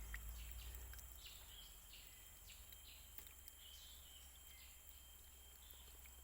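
Faint outdoor ambience: scattered short bird chirps over a steady high-pitched hum.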